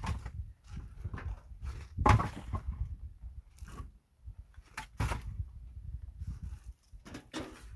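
A run of irregular knocks and thuds over a low rumble, the loudest about two seconds in and another about five seconds in, as of things being handled and set down.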